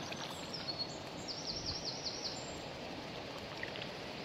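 Steady rush of flowing river water, with a small bird calling over it: a few thin high notes, then a quick run of about six repeated notes between one and two seconds in.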